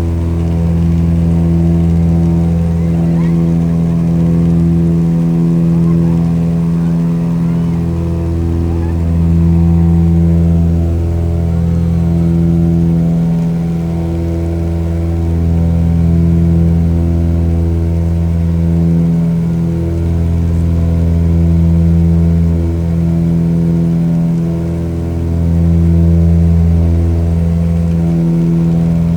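Engine running at a steady speed: a loud, even low drone with overtones, swelling and dipping gently every few seconds.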